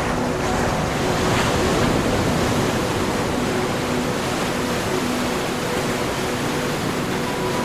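Ocean surf washing ashore, one wave swelling to its peak about two seconds in and then easing into a steady wash, with soft held music tones beneath.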